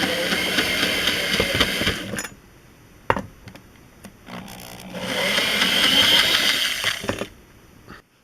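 Cordless drill-driver backing Robertson screws out of a chair's seat bottom, in two runs of about two to three seconds each, with a sharp click between them.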